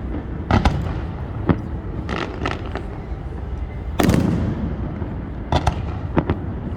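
Fireworks going off: a run of sharp bangs and crackling pops, with the biggest boom about four seconds in ringing out as it fades.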